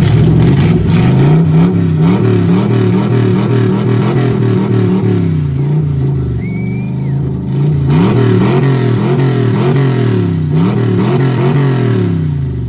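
Car engine revved hard again and again, its pitch climbing and dropping about once a second, loud; the revving stops abruptly near the end.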